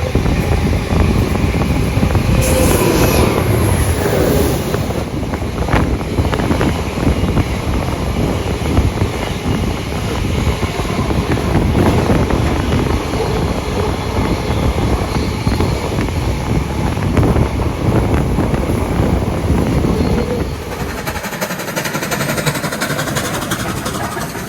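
Running noise of a steam-hauled passenger train in motion, heard onboard: wheels on rails and carriage noise as one dense, steady sound. About twenty seconds in, the noise drops in level and the deep rumble fades away.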